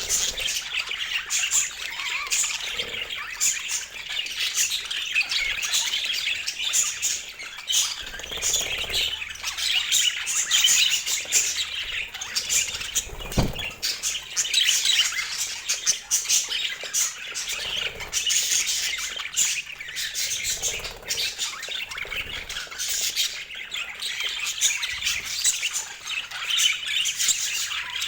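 A group of budgerigars chattering continuously, a dense mix of warbling chirps and squawks. A single low thump about halfway through.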